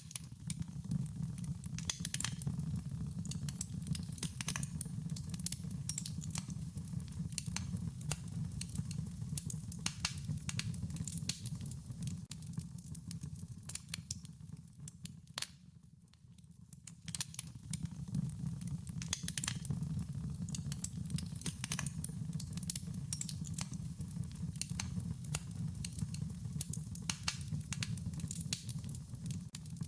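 Wood fire crackling and popping, many irregular sharp crackles over a low steady rumble; the crackling thins out and quietens for a moment about halfway through, then picks up again.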